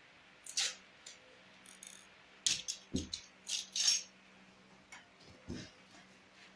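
Hard objects being handled and set down: a string of irregular clicks, knocks and rattles, busiest about two and a half to four seconds in, over a faint steady hum.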